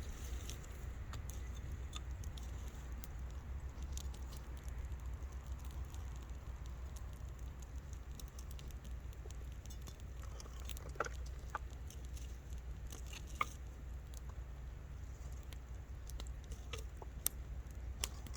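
Wood campfire crackling: irregular small pops and ticks, with a few louder snaps, over a steady low rumble.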